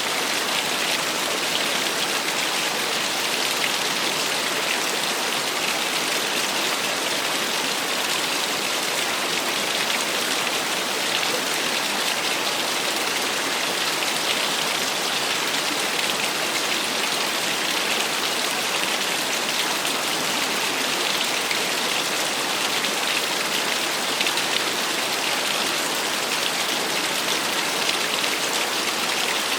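Small waterfall: water pouring and splashing in a steady, unbroken rush, bright and hissy with little deep rumble.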